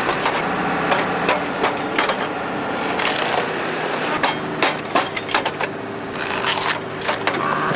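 Wood-processing machine running with a steady motor hum while wood cracks and splinters in irregular sharp snaps as logs are chopped into pieces.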